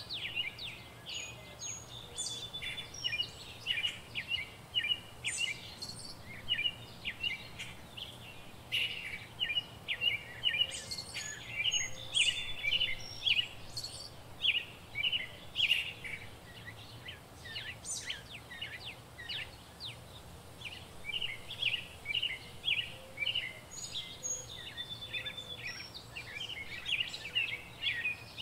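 Small birds chirping steadily, a dense run of short high calls with a few brief pauses.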